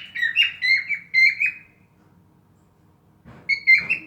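Cockatiel whistling its song in a quick run of short, clear notes. The notes break off about a second and a half in and start again near the end.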